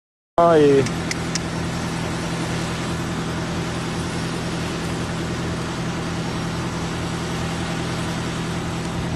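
A vehicle engine idling steadily with a low, even hum. It begins with a brief loud sound that falls in pitch.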